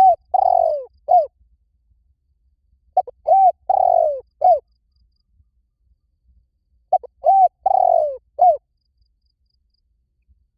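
Spotted dove cooing: a phrase of four or five short, arched coos with one longer, fuller note near its end, repeated three times about every three and a half seconds.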